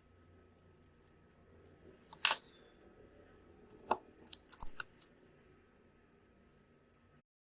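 Small hard clicks and taps of tools handling a phone's parts during a repair, with one sharp snap about two seconds in and a quick run of clicks around four to five seconds. The sound cuts off to silence near the end.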